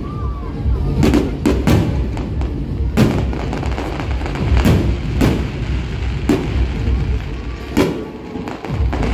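Aerial fireworks shells bursting: about eight sharp bangs at irregular intervals, some in quick succession, over a continuous low rumble.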